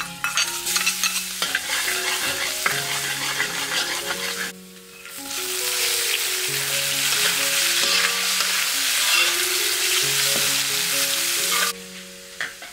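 Garlic sizzling in hot oil in a metal wok. After a short dip about four and a half seconds in, a louder, steadier sizzle follows as raw shrimp fry and are stirred with a metal spatula; the frying cuts off suddenly near the end.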